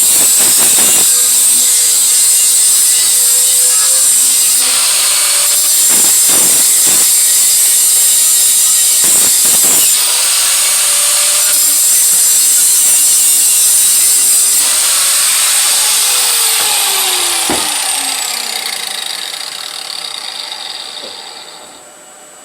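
Handheld power grinder working the steel exhaust head pipe with a high-pitched grinding hiss, its motor pitch dipping and recovering several times under load. About two-thirds of the way in it is switched off and spins down with a falling whine.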